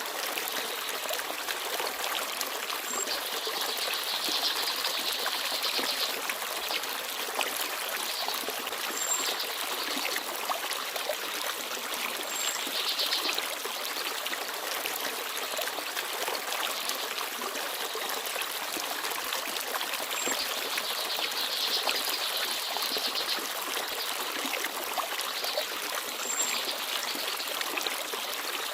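Forest stream babbling and trickling over stones in a steady flow. Brief high chirps of small birds sound now and then, every few seconds.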